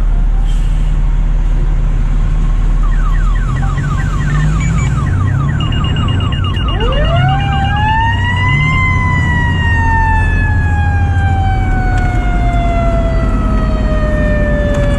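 Fire truck sirens over the engine running: an electronic siren yelps rapidly for a few seconds, then a Federal Q mechanical siren winds up about seven seconds in and slowly winds down, its pitch falling steadily.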